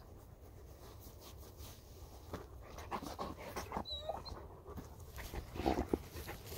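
A dog panting, with irregular rustling breaths and small clicks.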